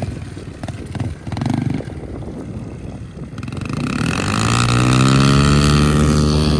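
Pit bike engine running low and uneven at first, then accelerating with a rising pitch about three and a half seconds in and holding steady at higher revs.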